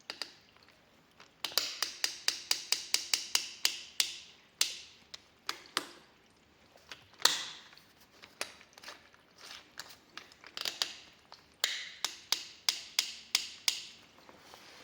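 Torque-setting collar of a Parkside PABS 20 Li G8 cordless drill being turned through its detents: quick runs of sharp, even clicks, several a second, broken by pauses and a few single clicks. These are fine, refined clutch-collar clicks.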